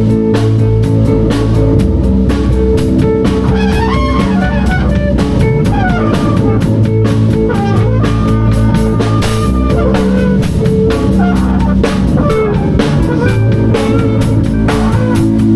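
Live band improvising: a drum kit keeping a steady beat under a bass line, with a lead guitar playing a bending melody over it.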